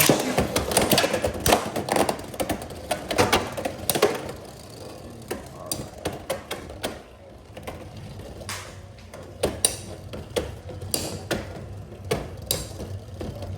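Two Beyblade X spinning tops, Silver Wolf 1-60 Rush and Phoenix Wing 3-60 Point, battling in a plastic stadium. Rapid clattering hits come thickly over the first few seconds, then thin out to scattered knocks as the tops slow down.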